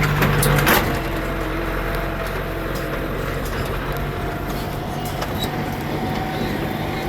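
Tractor engine running steadily during a ride, with a few sharp rattling clicks and knocks in the first second.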